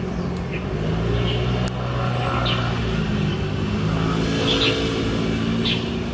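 A motor vehicle's engine running close by, its pitch shifting up and down, with a small bird chirping every second or so.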